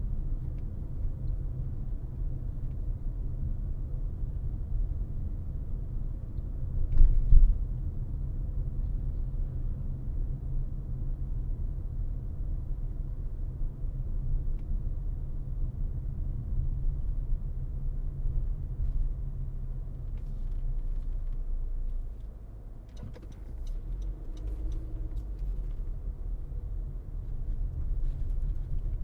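Low, steady rumble of a car driving, with a brief louder bump about seven seconds in and a quieter stretch with scattered clicks about two-thirds of the way through.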